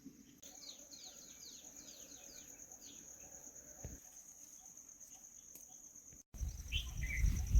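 Outdoor insects keep up a steady high-pitched drone, and a bird gives a quick run of about eight falling chirps from about half a second in. Just after six seconds the sound drops out for a moment, then a louder low rumbling noise comes in along with a few short bird chirps.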